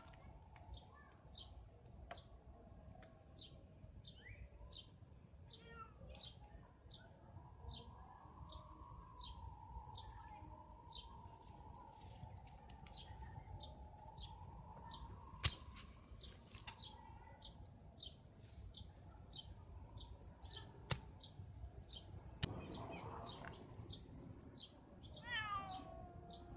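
A cat's long, drawn-out wavering yowl lasting several seconds in the middle, a warning call at a venomous snake. Faint high ticks repeat about twice a second behind it, with a few sharp clicks, and a falling call comes near the end.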